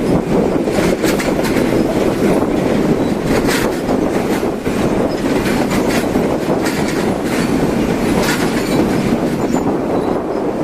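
Passenger train running at speed: a steady loud rumble of wheels on rails, with irregular clacks as the wheels pass over rail joints.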